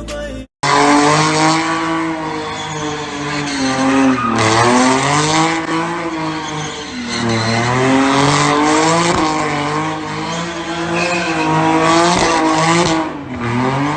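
A hard-driven car's engine running at high revs, its pitch rising and falling again and again, with tyre squeal over it. It starts abruptly about half a second in.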